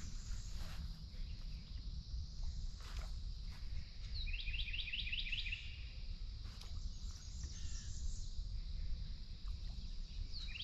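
Outdoor ambience with a low steady rumble, in which a songbird sings a quick run of about ten short chirping notes about four seconds in and again near the end. A few faint knocks are heard.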